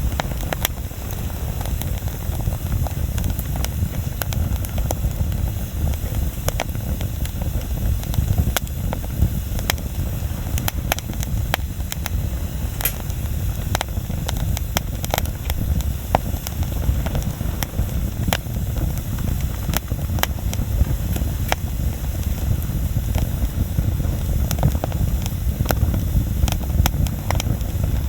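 Bonfire crackling, with frequent irregular sharp pops over a steady low rumble.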